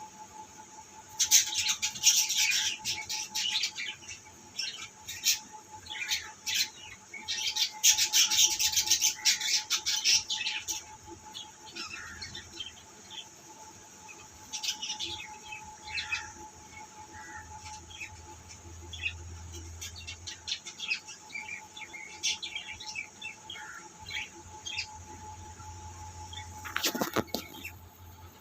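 Caged pet birds chirping: a dense flurry of quick chirps for the first ten seconds or so, then scattered calls, with a louder burst near the end. A steady faint hum runs underneath.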